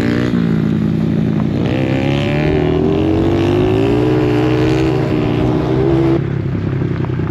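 Dirt bike engine accelerating, its pitch climbing slowly for several seconds, then dropping off suddenly about six seconds in.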